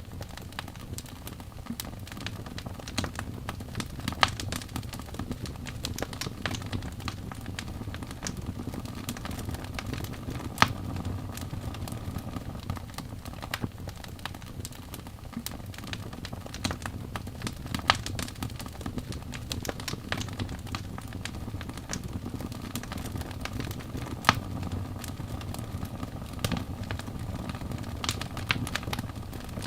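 Wood fire in a fireplace burning steadily, with a low rumble of flames and constant small crackles. A few sharp louder pops come every six or seven seconds.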